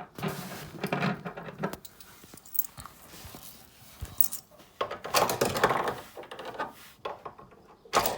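Irregular clicks, rattles and rustling of something being handled close by, busiest about five seconds in, with a sharp click a second earlier.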